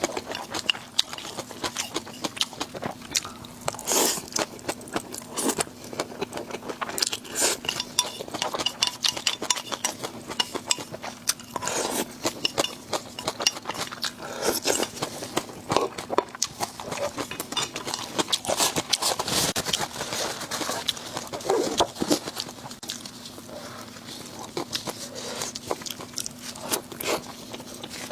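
Close-up eating sounds: a person chewing and biting food, with many irregular crunches and crackles, over a faint steady hum.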